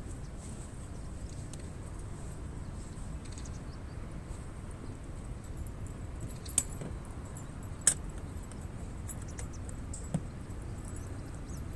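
Campfire burning: a steady low rumble with scattered fine crackles, and three sharp pops of burning wood in the second half, the loudest about eight seconds in.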